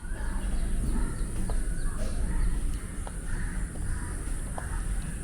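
Crows cawing, a run of calls repeating every half second to second, over a low rumble and a steady high hiss.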